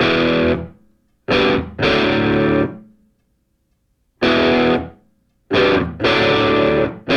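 Distorted electric guitar playing loud chord stabs. There are six hits, each held under a second, separated by short silences.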